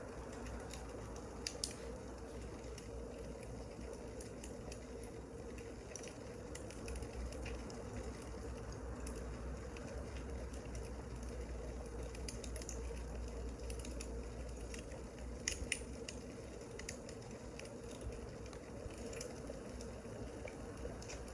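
Wood fire crackling: a steady soft rush with scattered sharp pops, a couple about a second and a half in and a small cluster around fifteen seconds in.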